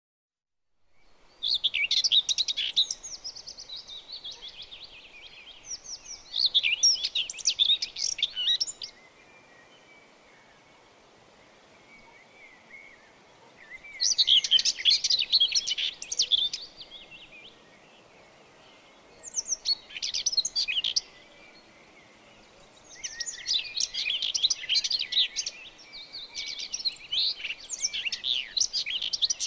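Small songbirds chirping in bouts of rapid high twittering a few seconds long, with short quieter pauses between bouts. The chirping starts about a second in, after silence.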